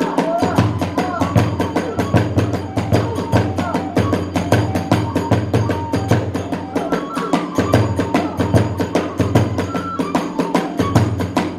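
Kagura hayashi ensemble playing a fast, driving beat: taiko drums and rapidly clashing small hand cymbals, with a high bamboo flute melody over it.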